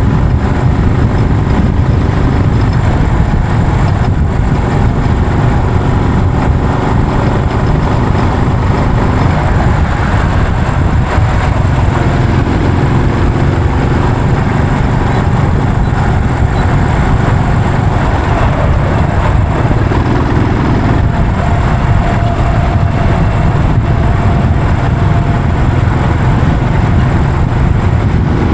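Yamaha SR400's air-cooled single-cylinder four-stroke engine running steadily under way, heard from the bike while riding.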